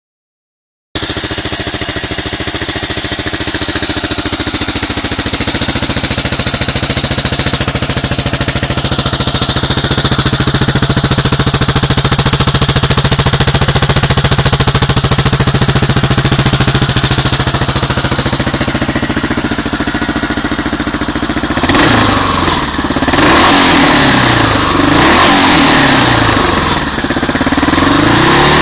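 Suzuki DR750 Big's big single-cylinder engine breathing through an aftermarket Akrapovic exhaust, idling steadily, then revved in several throttle blips, its pitch rising and falling with each, over the last few seconds.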